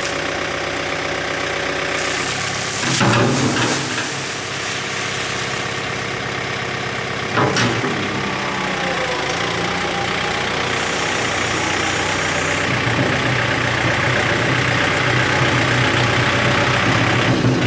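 Diesel engine of a compact tractor-loader-backhoe running steadily, with brief louder surges about three seconds and seven and a half seconds in.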